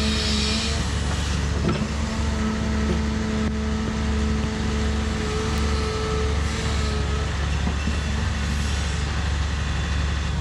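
Diesel engine of a heavy earthmoving machine running steadily, with a steady whine over it that fades out about seven seconds in.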